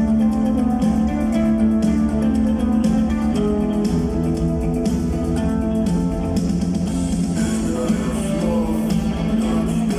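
A live rock band playing, with guitars to the fore and a steady beat.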